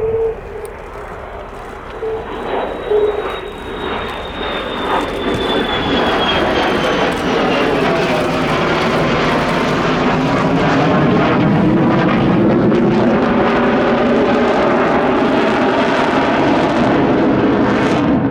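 Boeing F-15QA fighter jet's twin turbofan engines in a display pass. A high whine slides slowly down in pitch, then loud jet noise builds and holds through the second half.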